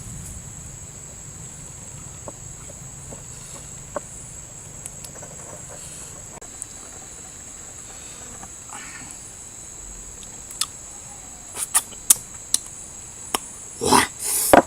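Steady high-pitched insect chirring, like crickets, throughout. From about two-thirds of the way in come scattered sharp clicks and knocks, the loudest two just before the end.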